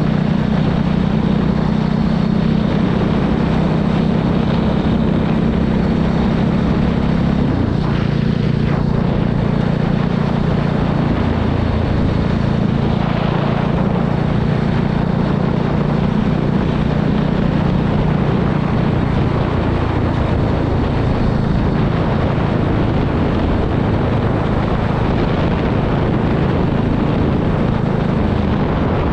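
Voge 300 Rally motorcycle's single-cylinder engine running steadily while the bike is ridden; its note shifts about eight seconds in and again a few seconds later.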